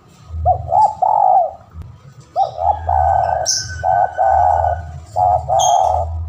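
Spotted dove (tekukur) cooing persistently, four phrases in a row, each a quick stutter of short notes running into a longer coo. This is the bird's territorial call to a rival. Brief higher chirps from another bird come in between.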